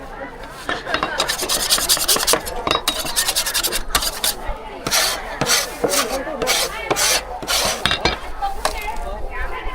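Rapid scraping and rubbing strokes: first a quick flurry, then slower single strokes about twice a second.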